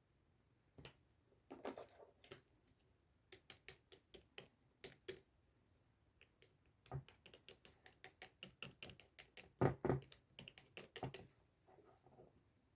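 Slime being pressed and poked, giving runs of sharp crackling clicks: a few at first, a quick series a little after 3 seconds in, then a denser and louder series from about 7 to 11 seconds in.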